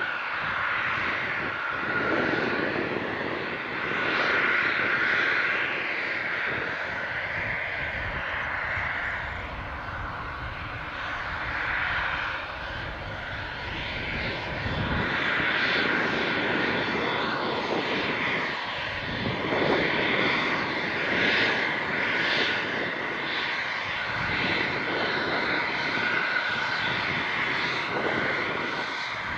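Airliner jet engines running: a continuous rushing noise with a high whine that swells and fades over the seconds, over a low rumble.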